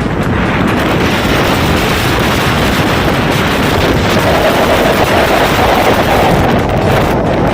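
Loud, steady rush of typhoon wind buffeting the microphone, with a rough crackle through it, cut off suddenly near the end.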